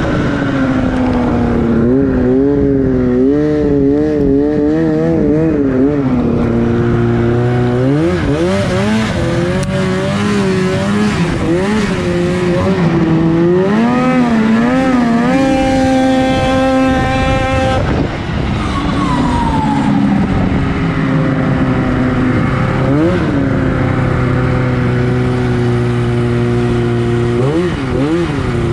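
2004 Arctic Cat F6 snowmobile's 600 cc two-stroke twin engine revving up and down again and again, with a long high rev held about halfway through before the pitch falls away.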